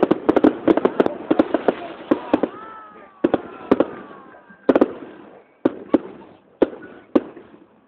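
Aerial fireworks bursting overhead: a rapid crackling volley of sharp bangs for the first two and a half seconds, then single cracks every half second or so.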